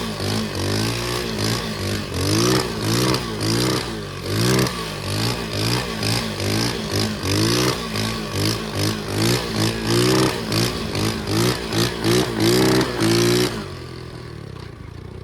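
Pit bike engine revving up and down repeatedly, its pitch rising and falling about every half second as the throttle is worked. About 13 seconds in it drops suddenly to a much quieter steady idle.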